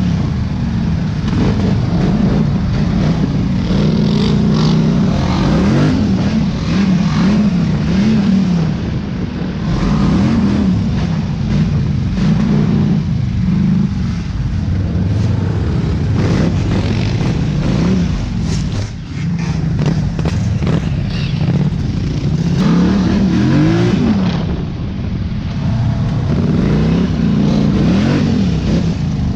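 Dirt bike engine running under riding load, its pitch rising and falling again and again as the throttle is worked and gears change.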